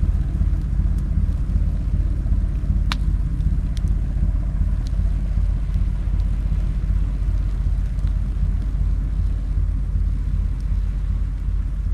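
Campfire of gathered branches and driftwood burning in a fire pit, giving a handful of sharp crackles and pops, the loudest about three seconds in, over a steady low rumble.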